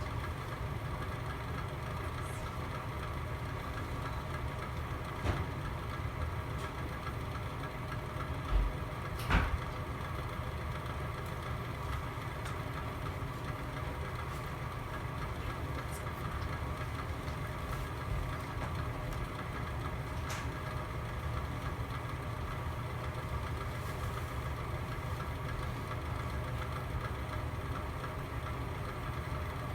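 Fireplace burning: a steady low hum with a few sharp pops scattered through it, the loudest pair about nine seconds in.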